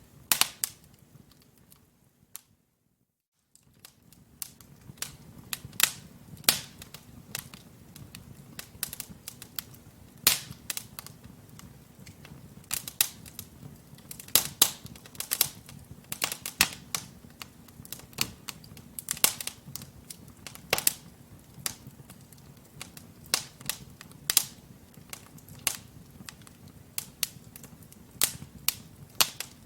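Wood fire burning in a fireplace: logs crackling with frequent irregular sharp pops and snaps over a low, steady rush of flame. The sound cuts out to silence for about a second, a little over two seconds in.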